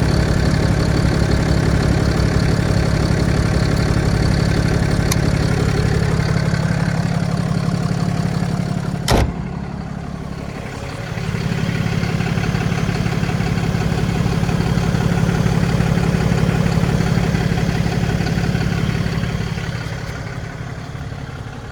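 Ram 5500 truck engine running steadily at idle, with one sharp knock about nine seconds in. The engine sound drops for a couple of seconds after the knock, comes back up, and fades away near the end.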